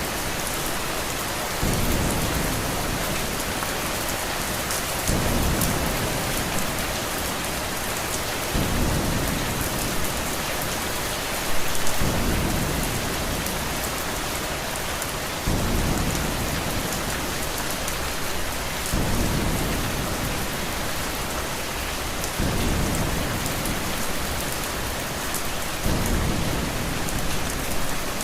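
Steady heavy rain hissing on a window, with low thunder rumbles swelling up regularly, about every three and a half seconds.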